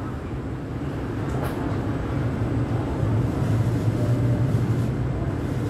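Steady low hum and rumble of an MTR East Rail Line electric train standing at an underground platform just after pulling in, with no braking squeal.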